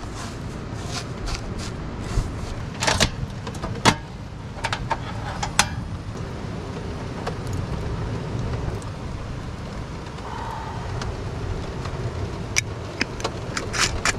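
Steady rain falling on and around a vehicle's overhang, with scattered sharp clinks and knocks of cooking gear being handled, clustered about three to five seconds in and again near the end.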